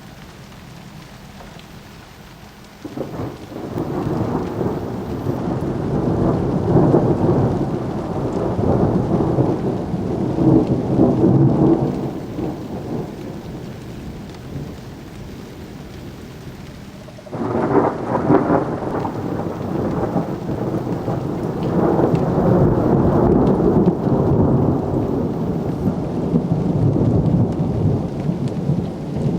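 Thunder rolling over steady rain. A first peal breaks suddenly about three seconds in and rumbles for around ten seconds before dying back to the rain; a second starts sharply just past the halfway point and keeps rumbling.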